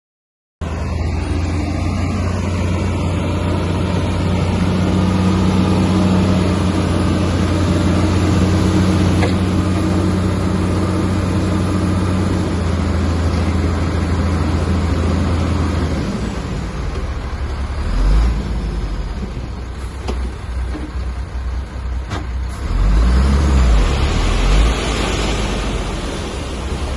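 Heavy diesel machinery engine running, cutting in abruptly about half a second in. A steady low engine note holds for the first half, then gives way to a lower, uneven rumble with a louder surge near the end.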